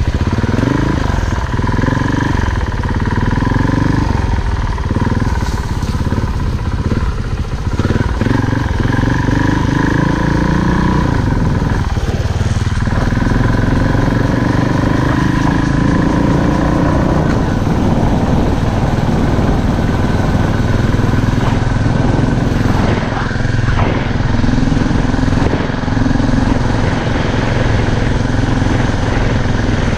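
Off-road motorcycle being ridden on a dirt trail, its motor rising and falling in pitch again and again with the throttle over a heavy low rumble.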